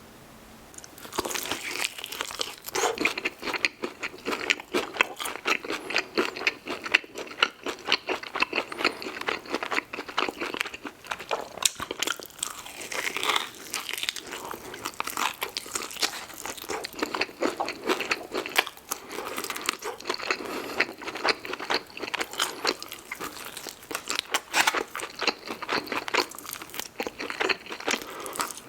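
Close-miked eating of fried fast food: a dense, irregular run of crunchy bites and chewing, starting about a second in.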